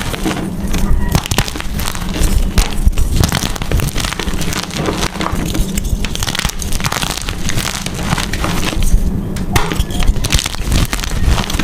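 Blocks of gym chalk being crushed and crumbled by hand, a dense, continuous crunching and crackling.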